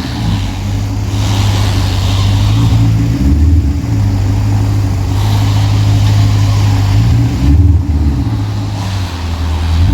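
V8 car engine running at low revs while the car is eased backwards into position, the pitch shifting up and down a few times as the throttle is blipped.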